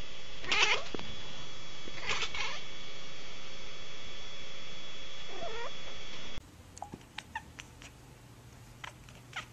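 Domestic cat calling: two loud, harsh cries about a second and a half apart, then a shorter meow that slides in pitch. After a sudden drop in level, only a few faint clicks.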